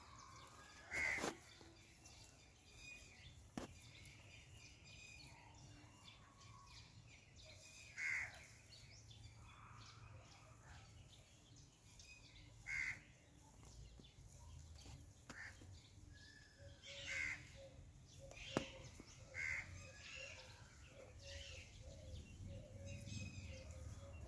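Indian peafowl calling: five short, loud calls spaced several seconds apart over a faint background, with a couple of sharp clicks.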